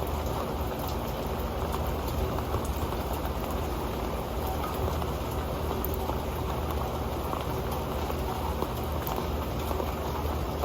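Rain falling steadily on an old pan: a dense, even patter of drops with scattered louder single hits.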